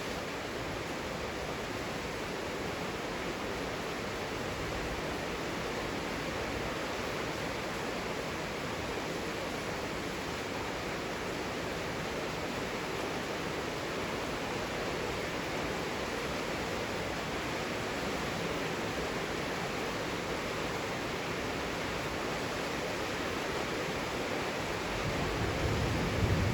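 Heavy rain falling in a steady, dense hiss. Near the end a low thunder rumble begins to swell under it.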